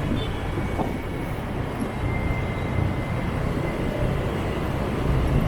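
Steady low rumble of a motorbike riding through city motorbike traffic, with engine and road noise and no sharp events.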